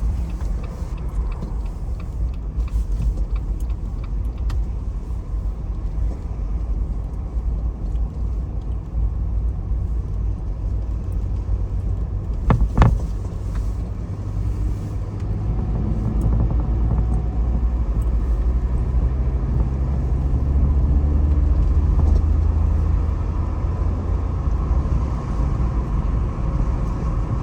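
Jeep driving, heard from inside the cabin: a steady low rumble of engine and road noise, with a single sharp knock about halfway through and the rumble swelling louder about twenty seconds in.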